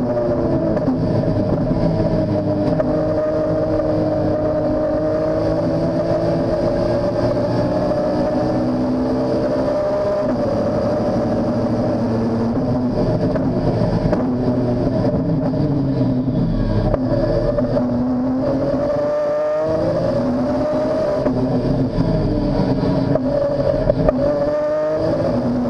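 Modified BMW S54 straight-six engine of a race car with a sequential gearbox, heard from inside the cabin while racing. It runs hard, its pitch falling as the car slows for corners and climbing again in several rising glides as it accelerates out.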